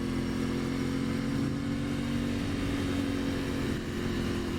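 2023 Aprilia Tuono 660's parallel-twin engine running at a steady pitch while riding, with wind noise over it.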